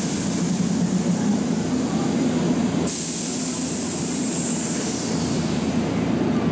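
Keihan electric train at a station with a steady, loud hiss over a low rumble; the hiss grows louder and sharper about three seconds in.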